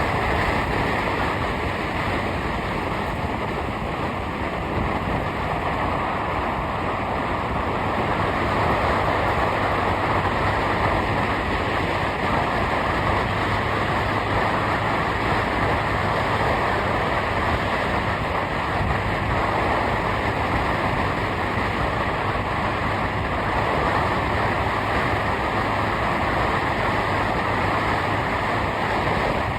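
Steady road and wind noise from a moving vehicle, an even rushing with no breaks.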